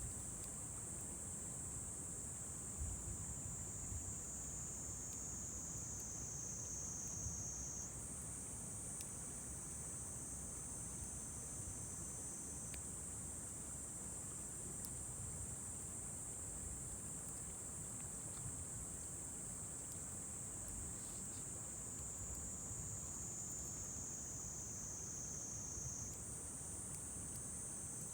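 Steady high-pitched insect buzzing that slowly sinks in pitch and jumps back up twice, about eight seconds in and near the end, over a low steady rumble with a few faint ticks.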